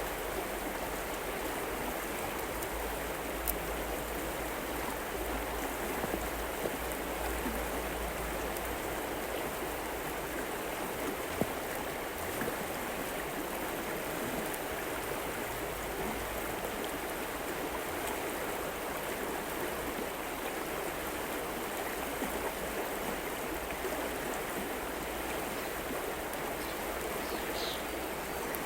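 River water flowing steadily in an even, continuous rush, with a couple of small ticks.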